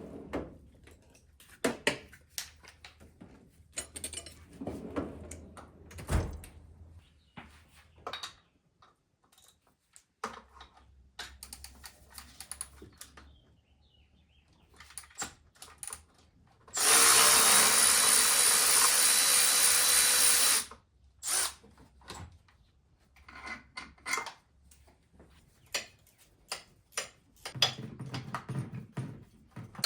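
A power drill runs steadily for about four seconds, starting near the middle, with scattered clicks and knocks before and after it.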